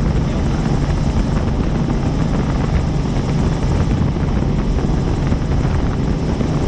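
Helicopter in flight: steady, loud rotor and engine noise with a low hum, unchanging throughout.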